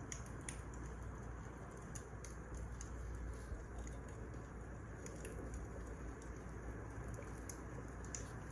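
Wood fire crackling: irregular small snaps and pops over a steady low hiss and rumble.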